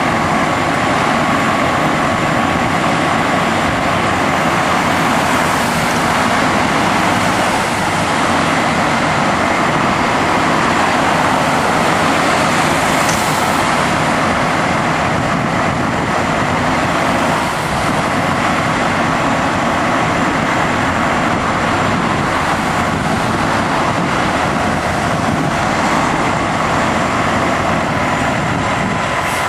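Fire engine on the road, its engine and road noise running loud and steady.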